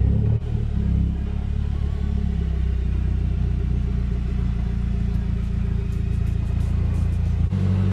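Mazdaspeed 3's turbocharged 2.3-litre four-cylinder engine idling steadily, a low even hum.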